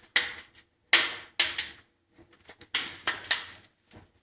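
Wood fire crackling in the open firebox of a Kratki Amelia fireplace insert during its first firing: a string of sharp pops at uneven intervals, each dying away quickly.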